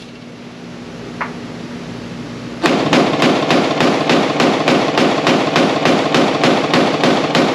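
Palmetto State Armory Dagger 9mm compact pistol fired rapid-fire, a steady string of shots at about four a second, starting a little under three seconds in. The shots echo in an indoor range.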